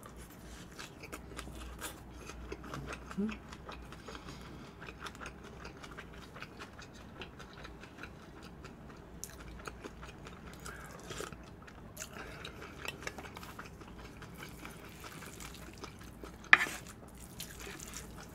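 Close-miked chewing of a mouthful of bibimbap: soft wet mouth sounds and many small irregular clicks. One sharp, loud click comes near the end.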